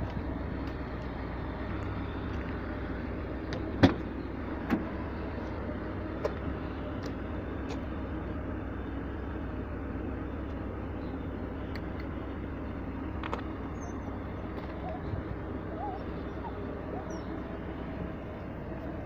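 Car engine idling steadily, with a few short sharp clicks or knocks over it.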